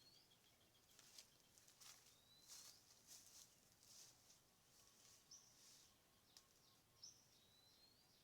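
Faint birds calling: a few short rising whistles a few seconds apart and scattered brief chirps, over a low steady background hiss.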